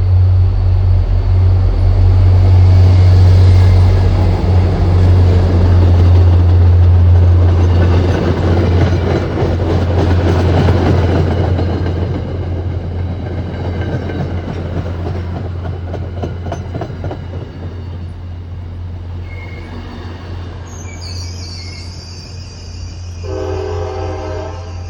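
MBTA F40PH-3C diesel locomotive and its commuter train passing close: the EMD 16-cylinder two-stroke engine gives a steady deep drone under the clatter of wheels over the rails. It is loudest in the first half, then fades as the train pulls away. A horn sounds briefly near the end.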